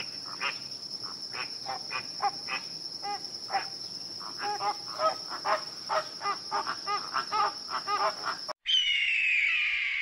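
A flock of flamingos calling: many short honking calls, overlapping and irregular, over a steady high-pitched drone. Near the end the sound cuts off suddenly and a single loud, falling screech of an eagle follows.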